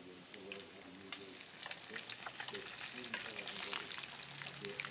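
Beer-battered whiting fillets deep-frying in a pan of hot oil, sizzling steadily with many small crackles and pops.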